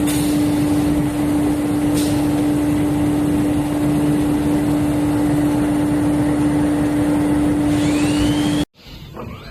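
CNC router running: loud, steady machine noise with a single strong hum. It cuts off suddenly near the end, leaving a much quieter stretch with a faint rising whine.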